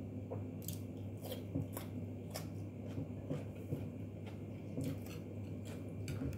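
Close-up chewing of food, with a dozen or so short, crisp crunches at irregular intervals, over a steady low hum.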